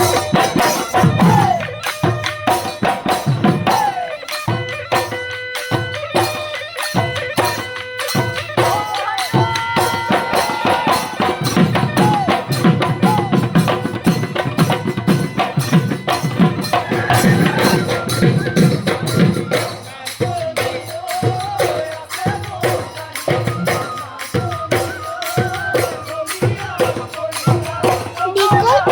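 Bihu folk music: fast, dense drumming with jingling percussion and singing over it.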